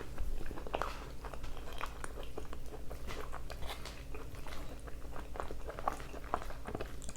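A person chewing a mouthful of carne asada fries close to the microphone, a steady run of small clicks and crunches.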